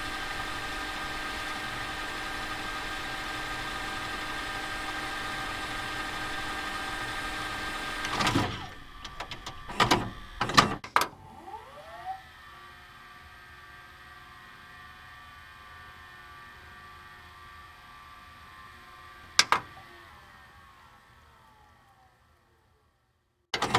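A machine hums steadily with several fixed tones. About eight seconds in comes a quick run of clicks and clunks. A fainter hum then slowly dies away, with one more click, into silence.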